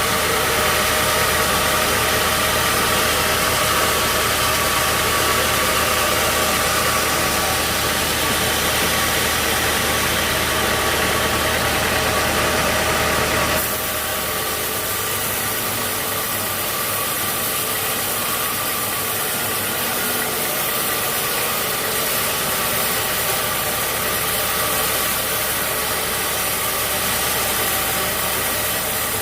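Sawmill machinery running steadily: a motor's hum under a constant hiss. About 13 seconds in the low rumble drops out abruptly and the running continues a little quieter.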